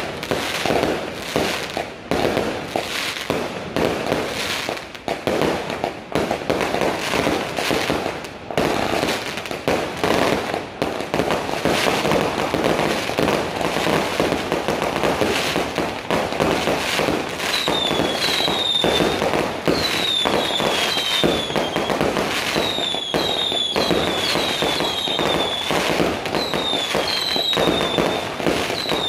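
Consumer fireworks cake firing a continuous rapid run of shots, each launch popping and bursting overhead with crackle. From about halfway through, short falling whistles join in, several a second.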